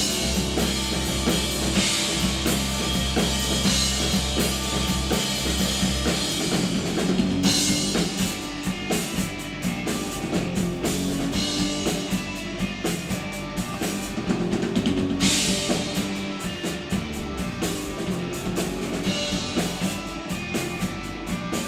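Rock band playing an instrumental passage with no singing: drum kit driving the beat under guitar, with a low held note in the first six seconds.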